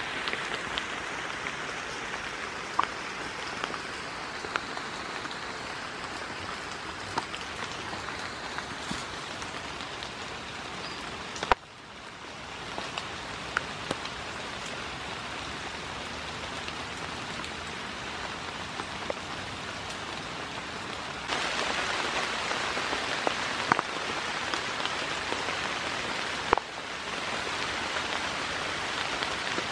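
Steady rain falling, with scattered sharp drip ticks on top. The hiss gets louder about two-thirds of the way through.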